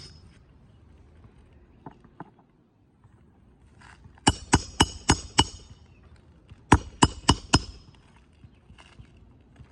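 Hand hammer driving roofing nails into asphalt shingles: two quick runs of sharp, ringing blows, five strikes about four seconds in and four more about three seconds later.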